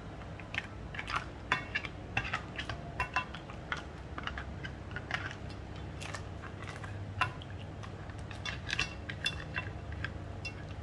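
A metal utensil clinking against cookware in an irregular run of quick clinks, each with a short ring, over a low steady hum.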